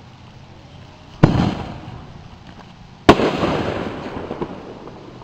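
Two loud firework bangs about two seconds apart, each sudden and trailing off over a second or so.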